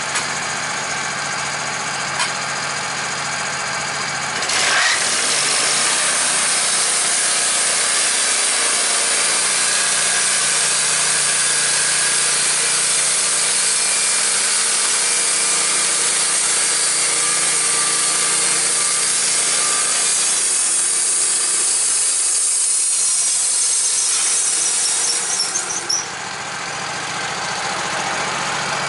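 Sawmill engine running steadily, then the saw blade enters the log and cuts through it with a loud, even, high hiss for about twenty seconds. Near the end the blade leaves the cut and only the engine is heard again.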